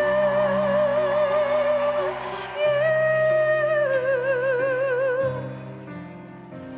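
A woman singing solo, holding two long notes with wide vibrato over soft instrumental accompaniment. The second note fades out a little past halfway through.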